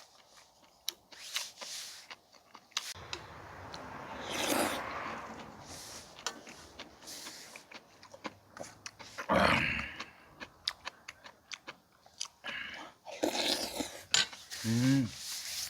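A person chewing a big mouthful of beef-head soup with rice, with wet mouth sounds and many short clicks.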